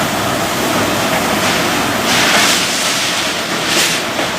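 Heavy rain falling steadily, with a louder rushing swell about two seconds in and a brief one near the end.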